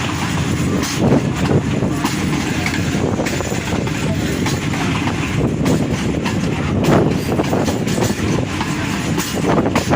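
Passenger train of the Rehman Baba Express running along the track: a steady rumble, with the wheels clacking over rail joints now and then.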